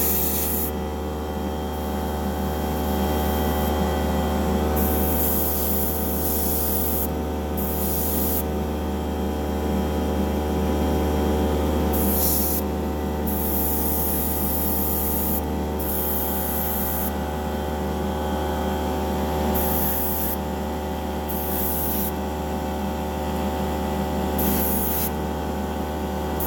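Airbrush spraying thinned paint in short on-off bursts of hiss, about ten bursts, over a steady motor-like hum.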